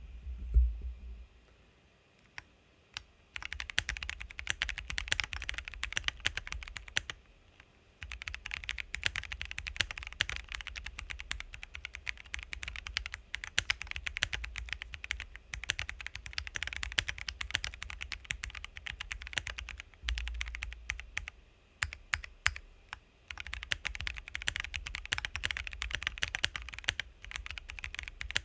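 Typing sound test on an unmodified, out-of-the-box Lemokey L1 mechanical keyboard with Gateron Brown tactile switches: rapid, continuous keystrokes. The typing starts about three seconds in and breaks off briefly twice, about 7 seconds in and about 23 seconds in.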